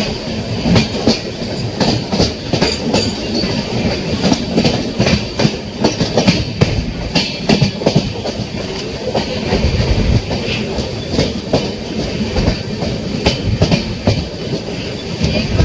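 Kerala Express passenger train running along the track at speed: a steady rumble with an irregular clatter of wheels striking rail joints.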